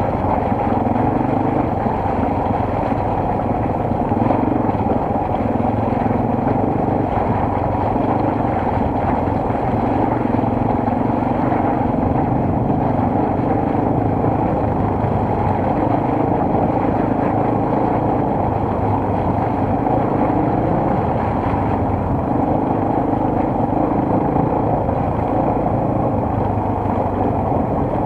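Single-cylinder four-stroke enduro motorcycle engine running under way, its note shifting up and down every few seconds with the throttle, under a steady rushing noise.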